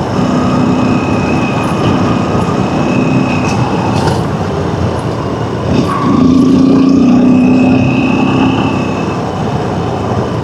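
Dirt bike engine running steadily while riding along a dirt road, the engine note holding one pitch. It gets louder about six seconds in.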